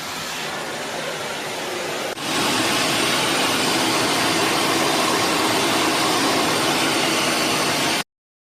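Philips Series 3000 Performer Compact 900 W bagged vacuum cleaner running with a steady rushing of motor and air. About two seconds in it dips for an instant, then runs on louder. It cuts off suddenly near the end.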